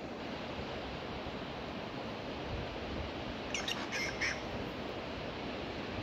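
Steady rushing background noise. About three and a half seconds in, a bird gives a quick series of short squawking calls that last under a second.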